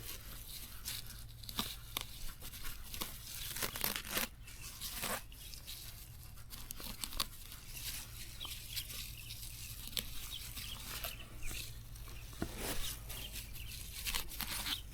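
Irregular tearing and rustling noises, short strokes coming unevenly a few times a second, over a steady low hum.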